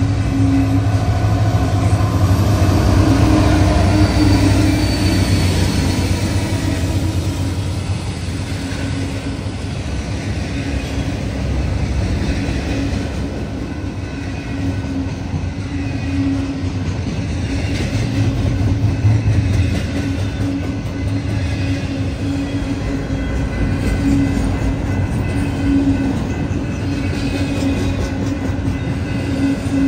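Double-stack intermodal freight train rolling past at close range: a steady, loud rumble of the container well cars' wheels on the rails.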